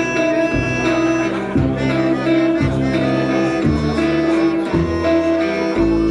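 Live band playing an instrumental passage: low bass notes change about once a second under a held higher note.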